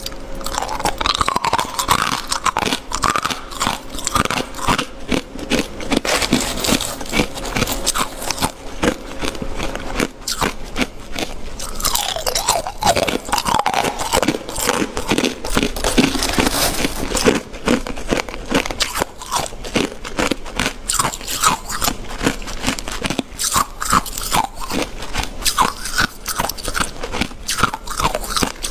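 Ice being bitten and chewed close to the microphone: dense, rapid crunching that keeps going with only brief pauses.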